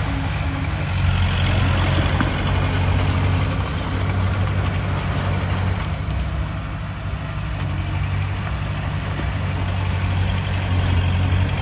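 Heavy diesel earthmoving machinery, a bulldozer or dump truck, running steadily with a low engine drone and a few faint knocks. The engine eases off a little around the middle and picks up again near the end.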